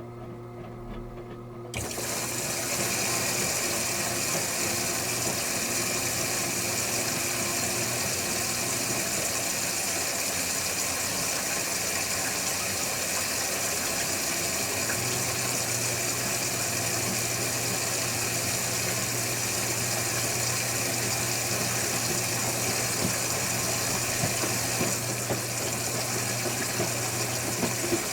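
Electrolux Wascator W355H commercial washing machine with water rushing through it, starting suddenly about two seconds in and running steadily. A low hum joins about halfway through.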